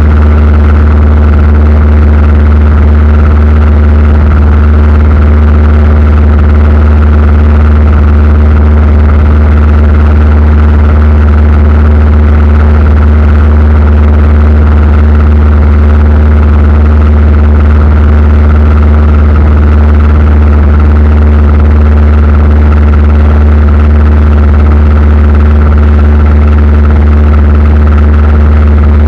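Aircraft engines droning steadily, heard from inside the cabin: a strong, unchanging low hum with steady tones above it.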